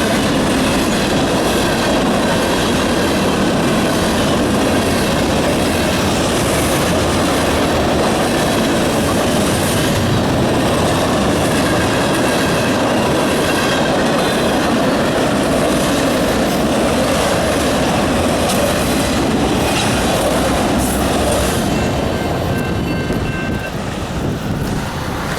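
Norfolk Southern freight train rolling past: a steady rumble and clatter of railcars on the track, with faint high squealing tones from the wheels. The noise eases a little near the end.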